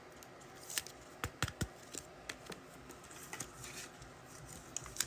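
Trading cards being handled at a table: irregular light clicks and slides of card against card, several close together in the second and third seconds and one more near the end.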